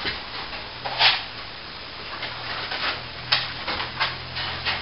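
A series of irregular short knocks and scrapes, the loudest about a second in, over a faint steady hum.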